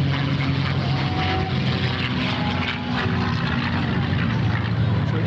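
A North American P-51 Mustang's V-12 piston engine and propeller droning overhead during an aerobatic display, the pitch shifting a couple of times as the plane manoeuvres.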